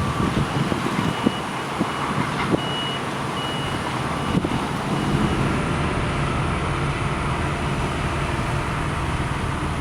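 Backup alarm on construction machinery beeping steadily at about one high beep every 0.7 seconds, over a heavy engine running. The beeping stops about five seconds in while the engine runs on.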